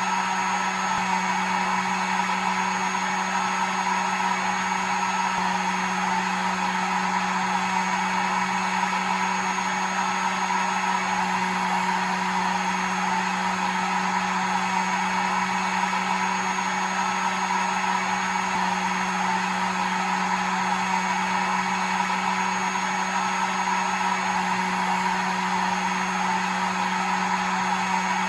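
Hair dryer running continuously: a steady airy rush over a low motor hum, with a faint high whine on top.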